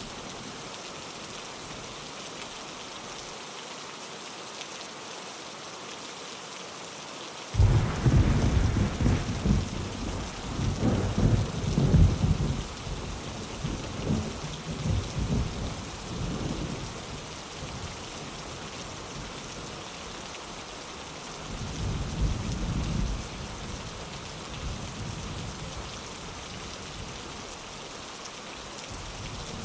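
Steady rain pattering on a window, with a thunderclap that breaks in suddenly about a third of the way in and rumbles for around ten seconds, and a second, softer roll of thunder later on.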